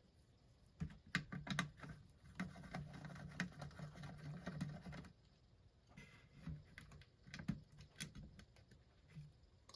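Faint, irregular small clicks and taps of a hand tool turning out a small screw and its washer from a record player's plate, thickest in the first half and sparser later.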